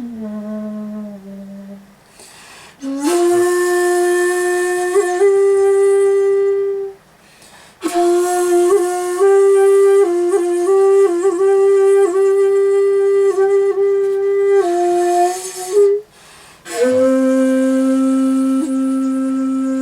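Solo komuso-style shakuhachi, the bamboo end-blown flute, playing long breathy held notes with small pitch bends and ornaments. The phrases are separated by short pauses for breath, and the last phrase settles on a lower held note.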